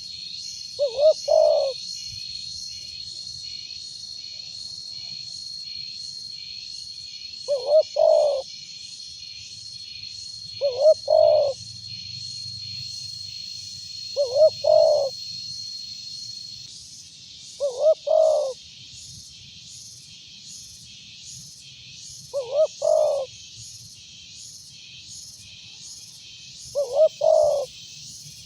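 Spotted dove cooing loudly: seven short phrases of two or three coos each, a few seconds apart. Behind them runs a high pulsing buzz, about two pulses a second, with a steady high whine that stops about halfway through.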